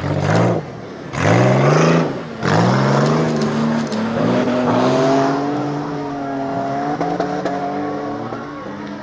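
Dirt-track race car engines revving hard as the cars accelerate: three loud surges rising in pitch in the first few seconds, then an engine note held steady and slowly fading.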